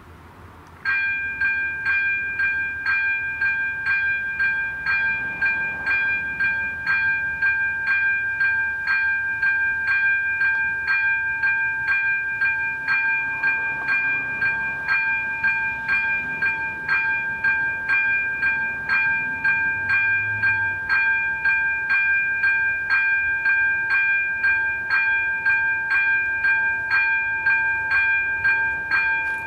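Level crossing warning bell switching on about a second in and ringing with fast, evenly repeated strikes: the crossing has been activated for an approaching train.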